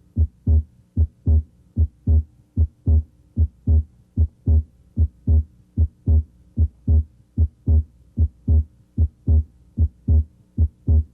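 Normal human heart sounds over the left third intercostal space: a regular lub-dub of S1 and S2, a little faster than one beat a second. Here the second sound's aortic and pulmonic components (A2 and P2) may be heard separately as the patient breathes deeply.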